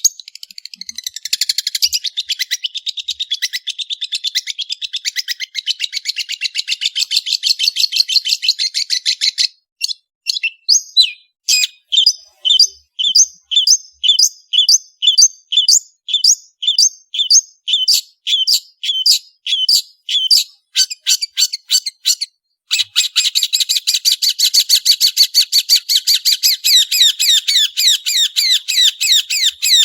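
Long-tailed shrike (cendet) singing a fast, chattering trill. About nine seconds in it breaks into a run of separate sharp notes, about two a second, then goes back into a fast trill near the end.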